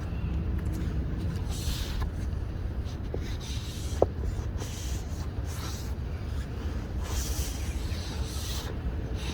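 Outdoor ambience: a steady low rumble with irregular hissy swishes every second or two, and a single sharp click about four seconds in.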